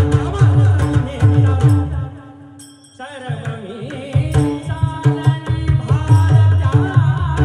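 Devotional abhang singing accompanied by rapid pakhawaj drumming over steady sustained tones. The drumming drops out briefly about two seconds in, a wavering solo voice comes in, and the pakhawaj strokes pick up again a second later.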